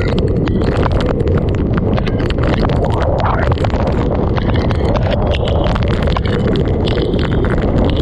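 Typhoon eyewall wind blowing hard and buffeting the microphone in a steady deep rumble, with a dense scatter of sharp ticks and knocks throughout.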